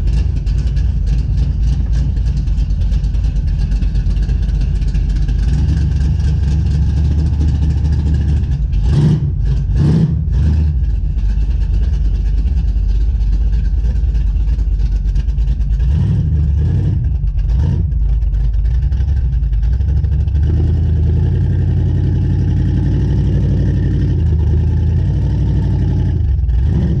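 An engine running steadily at idle, with a couple of brief rumbling surges about a third of the way in and again past the middle.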